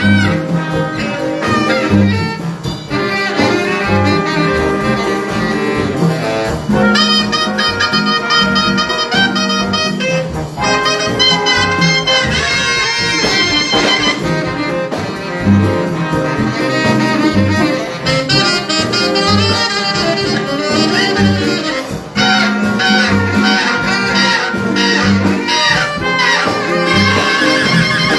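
High school jazz big band playing: saxophones, trumpets and trombones over a walking bass line.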